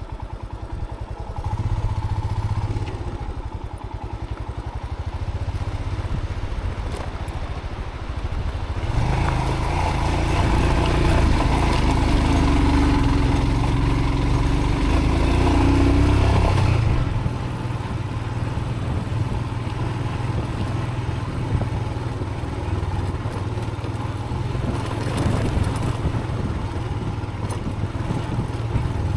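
Motorcycle engine running under a rider on a rough dirt track. It gets louder for several seconds in the middle, with a tone that climbs slightly, then settles back to a steady run.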